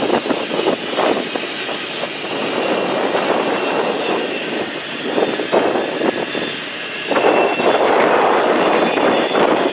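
Train cars rolling past on the track, wheels clacking over the rail joints, with a faint high wheel squeal; the sound grows louder about seven seconds in.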